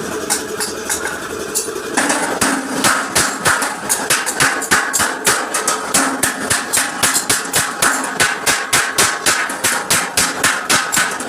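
Hammer blows on a truck's metal front bumper, beating out a dent: a fast, even run of sharp strikes, about three to four a second, that starts about two seconds in.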